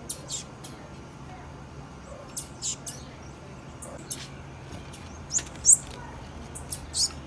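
Female blue-black grassquit (tiziu) giving short, high, sharp chirps at irregular intervals, about a dozen in all, the loudest just before six seconds in, over a faint steady low hum.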